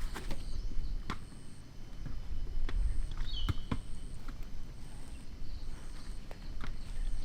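Outdoor nature ambience: a bird repeats a short call that slides downward, about every four seconds, over a thin high note repeating roughly once a second. Scattered sharp taps and clicks sound throughout, over a low rumble.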